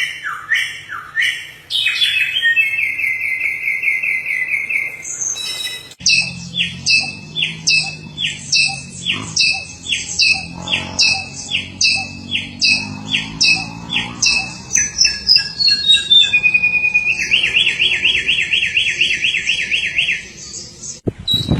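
Samyong songbird singing a loud, varied song: runs of quick repeated whistled notes, broken by fast buzzy trills shortly after the start and again near the end.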